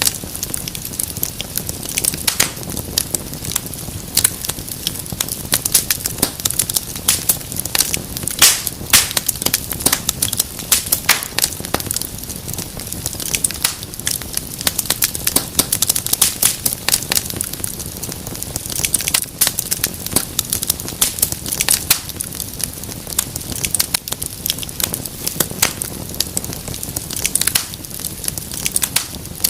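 Fire crackling in a fireplace: a dense, irregular run of sharp pops and snaps over a steady low noise.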